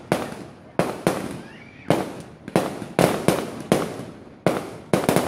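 Aerial fireworks bursting: about a dozen sharp bangs at irregular intervals, each trailing off in an echo.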